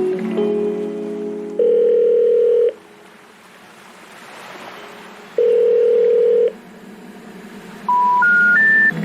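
Music stops about a second and a half in. Two long steady telephone beeps follow, about four seconds apart, then three short tones stepping up in pitch, like the signal that comes before a 'number not in service' recording.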